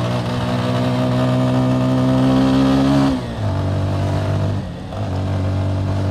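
Motorcycle engine under way, its revs climbing slowly in gear for about three seconds. The revs then drop sharply at a gear change and run on steadily at a lower pitch, with another brief dip in level near five seconds in.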